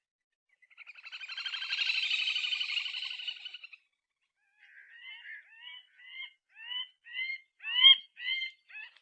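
Little grebe calling: a rapid whinnying trill that swells and fades over about three seconds. After a short pause come short rising chirps, about two a second, growing louder toward the end.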